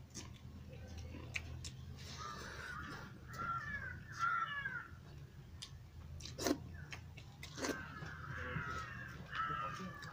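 A bird cawing in two bouts of short harsh calls, about two seconds in and again near the end, over a low steady hum, with a couple of sharp clicks in between.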